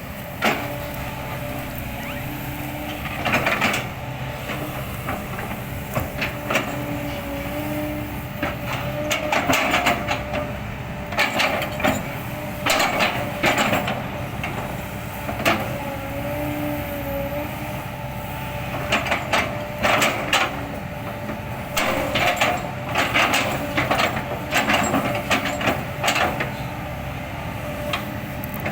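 Kobelco excavator's diesel engine running steadily with a tone that bends now and then, over repeated clusters of sharp knocks and crunches as the bucket chops oil palm trunks.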